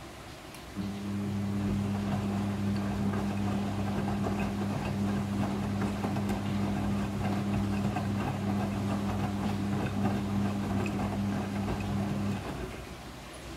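Midea front-loading washing machine mid-cycle: a steady mains-frequency hum from a pump or valve comes on about a second in and cuts off near the end, over a rushing, watery noise.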